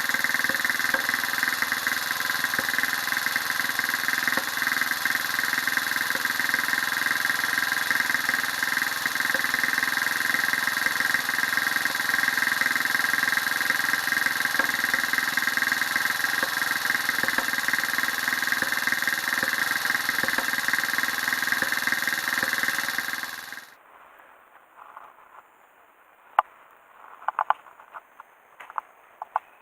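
Bored-up Honda Jazz's single-cylinder four-stroke engine running steadily, then cut off suddenly about 23 seconds in, followed by a few faint clicks.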